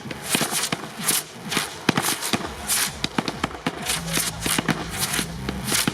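Fireworks display heard from close to the firing site: a fast, irregular run of sharp bangs and cracks mixed with short hissing bursts.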